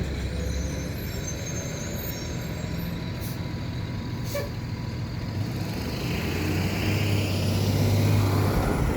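MR90 electric multiple-unit commuter train running with a steady low hum that grows louder in the last few seconds.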